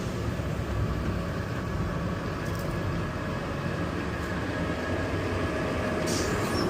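Garbage truck's engine running steadily at idle, heard from inside the cab, with a short hiss near the end.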